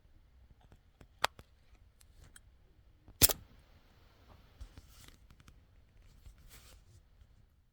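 Hand woodcarving on a white birch figure: two sharp clicks, the second and louder about three seconds in, then faint, brief scraping.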